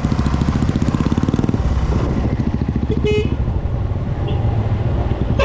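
Motorcycle engine running with a fast, even pulse. A short horn beep comes about three seconds in.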